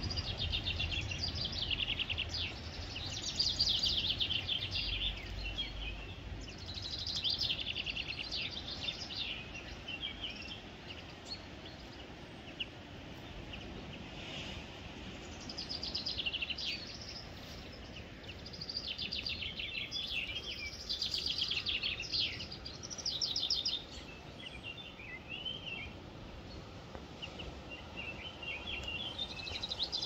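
Bird song: high phrases of rapid trilled notes, each a second or two long, repeating every few seconds over a faint steady background hiss.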